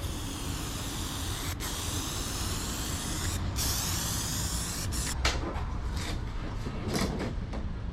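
Aerosol can of Dulux Duramax gloss black spray paint hissing as a coat is sprayed on. It is a long steady spray, broken off briefly about one and a half and three and a half seconds in, then shorter spurts through the second half.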